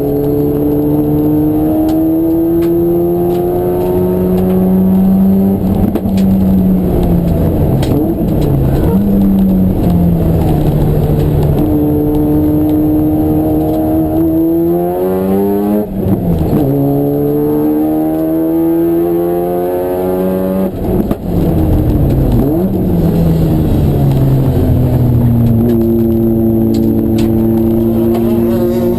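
Race car engine at high load, repeatedly climbing in pitch and dropping sharply at each gear change, with a stretch of quick downshifts and throttle changes about two thirds of the way through before it pulls up through the revs again.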